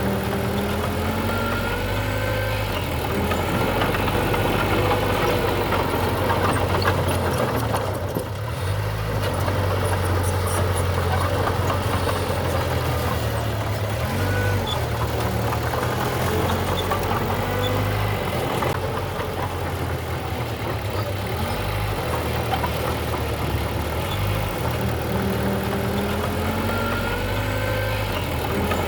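Diesel engine of heavy earthmoving machinery running steadily, its low drone shifting in level every few seconds.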